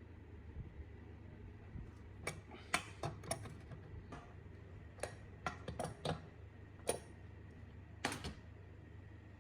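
Workshop handling noise: about a dozen irregular sharp clicks and knocks, starting a couple of seconds in and ending near the end, over a low steady hum.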